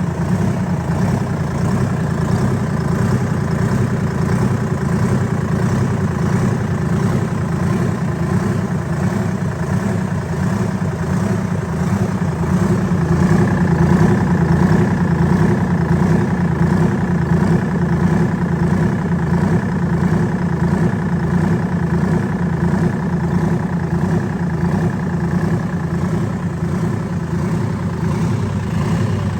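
Detroit 6V53 two-stroke V6 diesel engine running steadily on a test run. A thin, higher whine joins the engine sound about halfway through and lasts until near the end.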